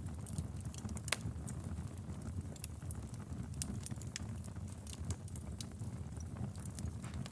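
Fireplace fire crackling: a steady low rumble of burning with scattered sharp pops and snaps throughout, one louder pop about a second in.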